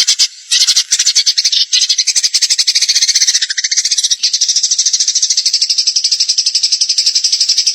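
A songbird's high, dry rattling trill: a long run of very rapid, evenly repeated notes, broken only by a short gap just after the start.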